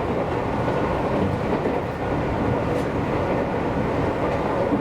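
Seibu Railway commuter train running, heard from inside the car: a steady rumble of wheels and running gear on the rails.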